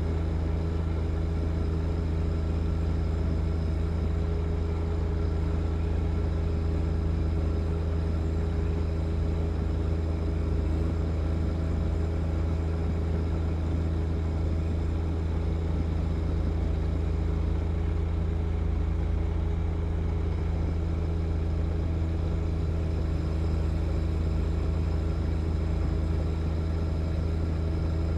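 John Deere 1025R sub-compact tractor's three-cylinder diesel engine running steadily at a constant speed, a low, even drone that holds its pitch throughout.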